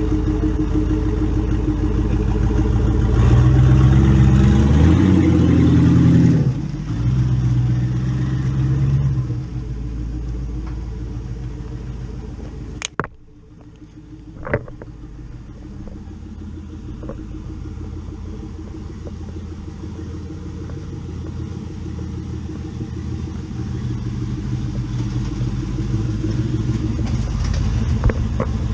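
Car engine running and revving up over the first few seconds, then dropping back. Two sharp clicks come about halfway, and after them a steady drone slowly grows louder.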